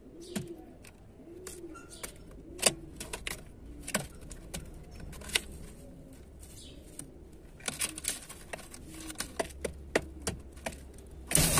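Pigeons cooing over and over, a low arched coo about once a second, with many sharp taps and clicks between the calls. A loud, sudden rush of noise starts just before the end.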